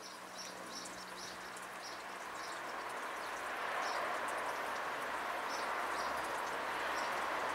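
Small birds chirping, short high chirps repeated every half second or so, over a steady rushing background noise that swells over the first few seconds.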